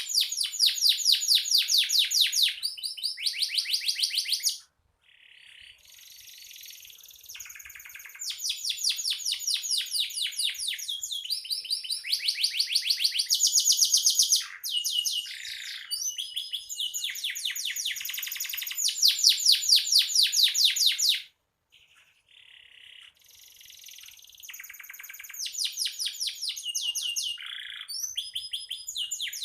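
Domestic canary singing: long rolling trills of rapid repeated notes, changing from one trill to the next, with two short pauses.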